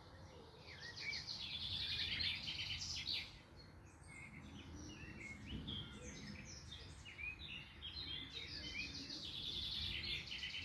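Songbirds singing and chirping, with rapid trilled phrases about one to three seconds in and again near the end, and shorter chirps between them, over a faint low background rumble.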